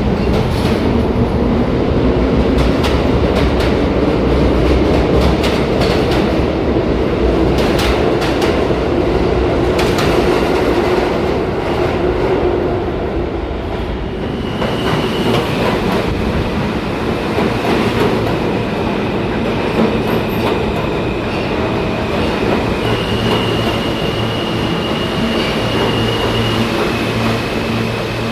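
New York City Subway train in the station, its wheels clicking over rail joints under a steady rumble and a humming motor tone. About halfway through the rumble eases, and steady high tones and a low hum carry on.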